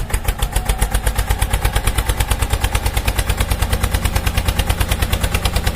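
Engine running steadily with a rapid, even chug of about eleven beats a second.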